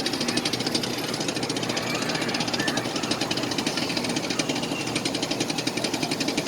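Train running, with a fast, steady rhythmic rattle and clatter.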